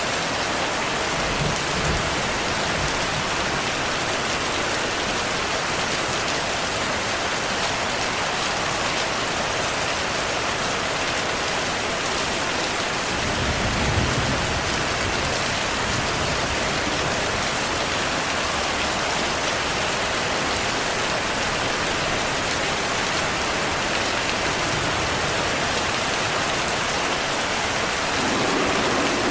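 Steady rainfall hissing. About halfway through, a low thunder rumble rises and fades over a few seconds.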